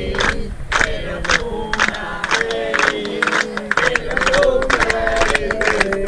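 A group of people singing together and clapping in time, about two claps a second.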